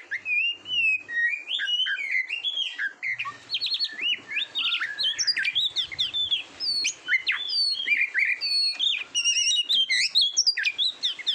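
Oriental magpie-robin singing: a fast, unbroken run of varied, high whistled notes that sweep up and down, with quick repeated notes mixed in.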